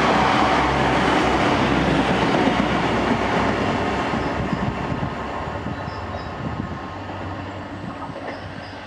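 A First TransPennine Express Class 185 diesel multiple unit passes through at speed and runs away into the distance. Its engine and wheel-on-rail noise is loud at first and fades steadily as it recedes.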